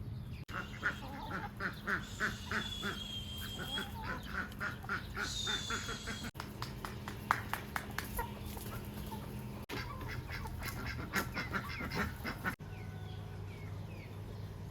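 Farmyard poultry calling in runs of short repeated calls, about four a second, with a couple of high whistled bird calls among them.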